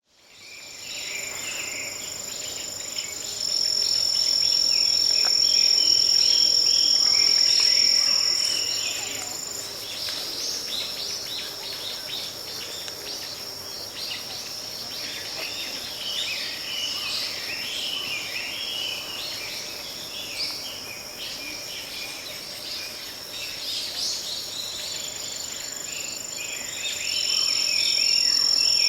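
Forest ambience of insects singing: steady high-pitched trills that start a few seconds in, stop about a third of the way through and return near the end, over a continuous chorus of chirping calls.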